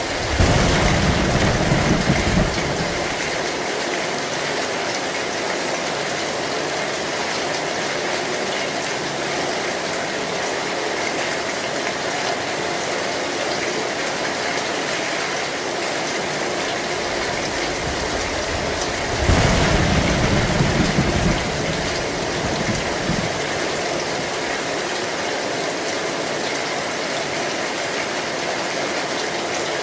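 Heavy rain pouring steadily onto an old metal tin roof. Two low thunder rumbles, each about two seconds long: one right at the start and one about two-thirds of the way through.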